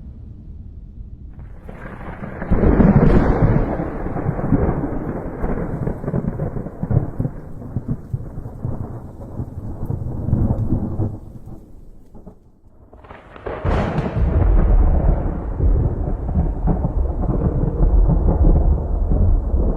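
Two rolls of thunder. A sharp crack about two seconds in rumbles on and fades away over about ten seconds, then a second crack a little past halfway breaks into deep, heavy rumbling that carries on.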